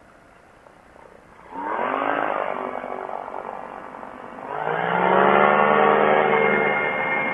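Quicksilver ultralight's engine and propeller opening up from low throttle: about a second and a half in the engine note climbs sharply, eases back a little, then rises again just past halfway and holds at high power, as for a climb.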